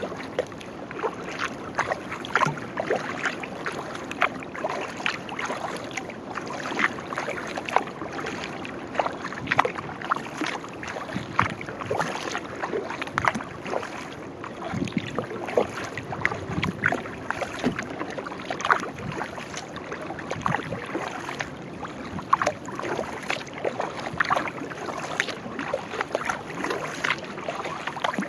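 Sea kayak being paddled: a run of small splashes and drips as the paddle blades dip in and out of the water, over a steady wash of moving water.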